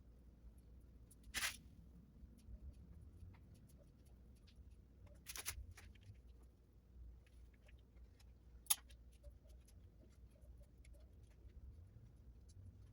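Near silence with three brief, sharp clicks or scrapes: about a second and a half in, about five seconds in, and a sharper click near nine seconds.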